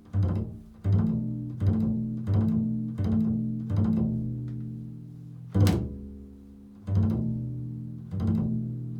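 Improvised music of low plucked string notes, about one every three-quarters of a second, each left ringing. After a short pause, about two-thirds of the way through, comes one sharper, brighter pluck, and the steady notes then carry on.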